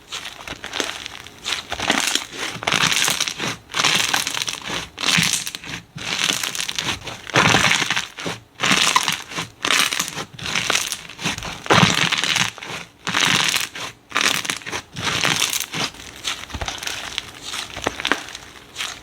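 Slime being squeezed, pressed and stretched by hand: a run of irregular squishing and popping noises with short gaps between them.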